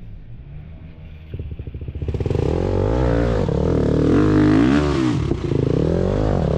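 Off-road motorcycle engine: a steady firing beat sets in about a second in, then the engine is revved up and down several times.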